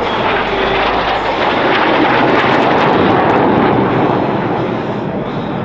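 A pair of BAE Hawk Mk65 jet trainers passing, their Rolls-Royce Adour turbofans making a loud jet roar. The roar builds over about two seconds, peaks in the middle, then fades toward the end.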